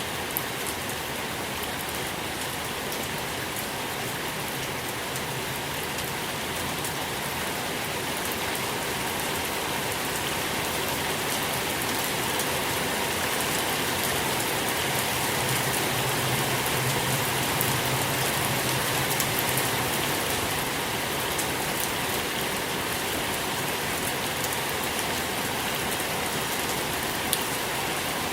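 Steady rain falling on a surface, a dense even hiss with fine drop ticks, swelling slightly for a while midway.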